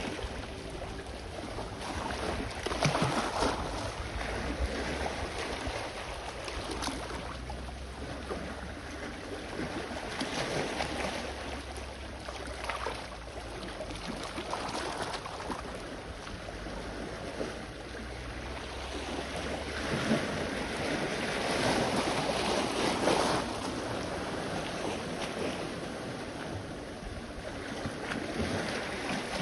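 Sea waves washing onto the shore, each swell rising and falling every few seconds, over a low steady rumble of wind on the microphone.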